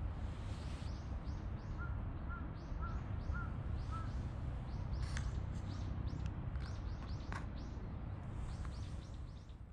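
Birds chirping repeatedly, short high notes, with a quick run of five or so lower notes about two to four seconds in, over a steady low rumble of city background. The sound fades out near the end.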